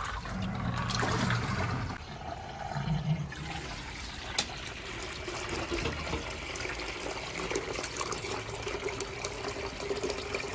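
Water draining out of a Rovsun portable washing machine through its drain hose into a bucket: a steady running trickle and splash. A faint steady hum joins about halfway through.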